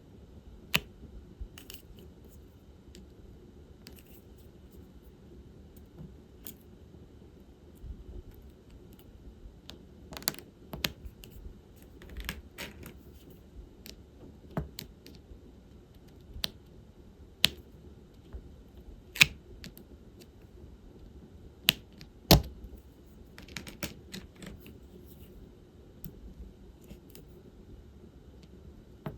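Irregular small clicks and taps of diamond painting work: resin drills picked up with the applicator pen and pressed onto the canvas, with about half a dozen sharper, louder clicks scattered through.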